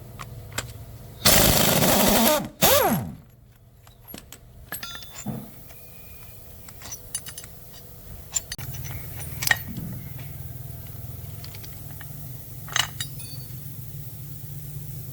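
Metalworking tool sounds: a loud burst of noise lasting about a second, then a second short burst that trails off in falling tones, followed by scattered metallic clicks and taps over a low hum.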